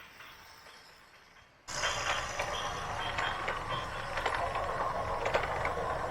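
Small geared electric motors of a radio-controlled backhoe loader running, a steady whir with scattered clicks, starting abruptly after a quiet second and a half.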